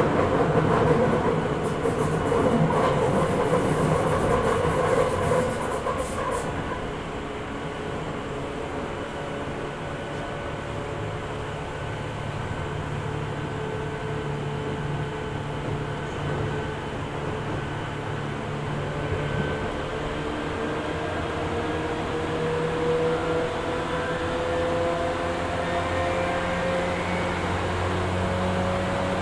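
Running noise inside a Tokyu 8500 series electric train car with Hitachi traction motors: wheels and rails rumbling, louder with scattered clicks for the first six seconds or so, then a steadier rumble under a faint motor whine that rises slowly in pitch as the train gathers speed.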